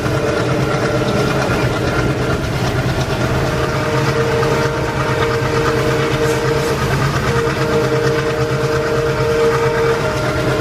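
Indian Railways locomotive-hauled train running by, a steady mechanical hum with several held tones over the rolling noise of the train.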